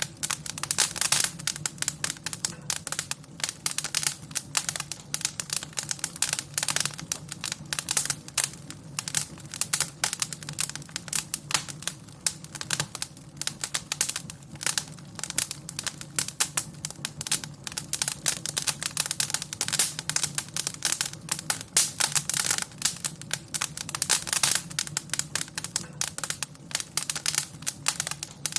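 Wood fire in a fireplace crackling, with dense, irregular pops and snaps over a steady low undertone.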